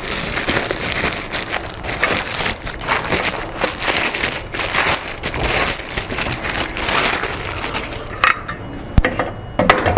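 Crinkling and rustling of plastic packaging being handled for several seconds. Then a single sharp click near the end, as the espresso machine's drip tray snaps into place.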